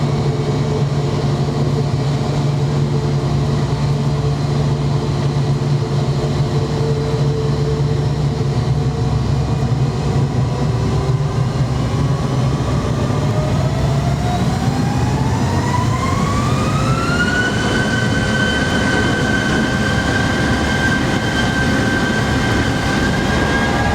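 McDonnell Douglas MD-90's IAE V2500 turbofan engines heard inside the cabin: a steady drone, then a whine that rises over about five seconds as the engines spool up and then holds steady at high power.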